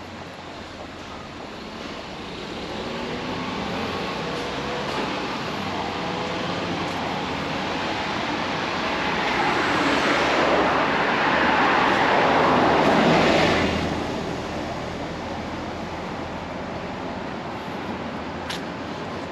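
A motor vehicle approaching along the road, its engine and tyre noise swelling steadily, passing close about thirteen seconds in, then dropping off quickly and fading to a steady traffic hum.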